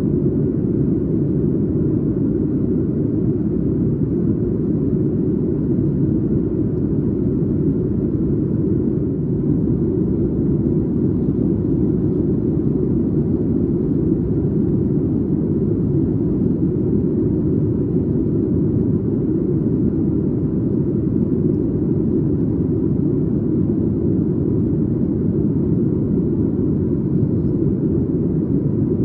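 Steady cabin noise inside a Boeing 737 MAX 8 in flight: an even, low rush of airflow and engine noise that holds at one level throughout.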